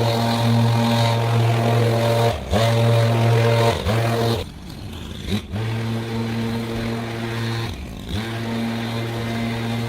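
A small petrol engine on lawn-care equipment running at high speed. Its pitch dips briefly and recovers a few times, and it drops to a quieter low for about a second shortly before the middle.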